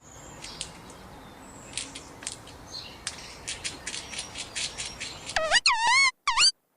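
An animal's calls: faint short chirps and clicks over a background hiss, then from about five and a half seconds a quick run of loud, short high calls, each dipping and then rising in pitch.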